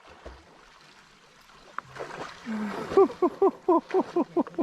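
A man's voice giving a rapid run of short whooping cries, about ten of them at roughly five a second, from about three seconds in. It is a shivering reaction to plunging into near-freezing lake water. Some water stirring is heard just before.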